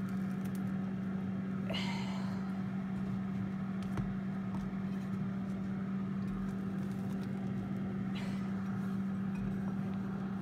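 Air fryer running with a steady low hum from its fan. A brief rustle comes about two seconds in and again near eight seconds, with a single light click about four seconds in.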